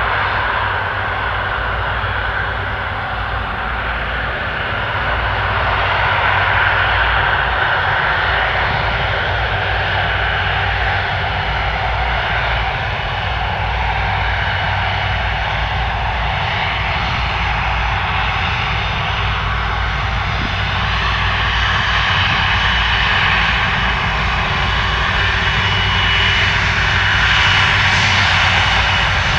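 Airliner's jet engines running loud and steady, with a thin high whine that grows stronger over the last several seconds.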